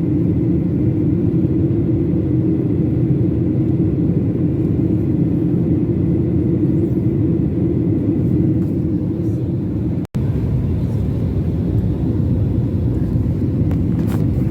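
Jet airliner cabin noise: a steady low rumble of engines and airflow heard from a passenger seat. It breaks off for a split second about ten seconds in, then resumes unchanged.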